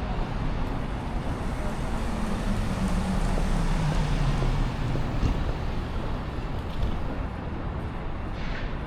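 City street traffic: a motor vehicle passes close by, its engine note dropping in pitch a few seconds in, over steady road noise.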